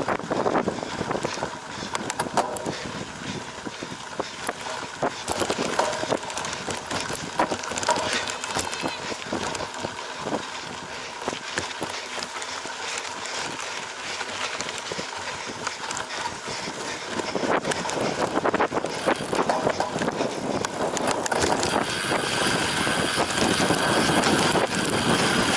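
Cyclocross bike ridden hard over rough off-road ground: tyre noise with a constant stream of rattling clicks from the bike, getting louder over the last few seconds.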